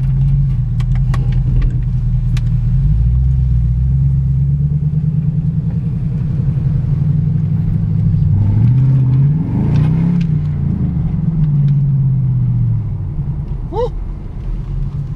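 2010 Camaro SS's V8 with a Borla aftermarket exhaust, heard from inside the cabin, running at low revs as the car moves off. About eight seconds in it revs up with a rising pitch, then falls back near the end.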